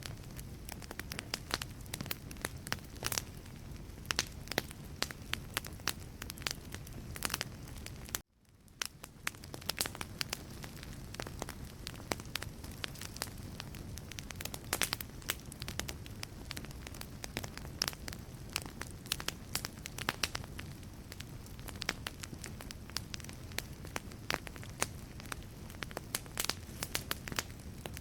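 Wood burning in a fireplace, crackling with frequent sharp pops over a low steady rumble. About eight seconds in, the sound drops out abruptly for a moment and fades back in.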